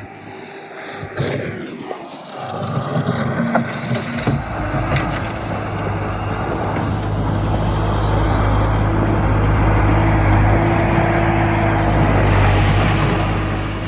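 Skid steer's diesel engine working under load, getting louder a few seconds in and then running hard and steady at higher revs.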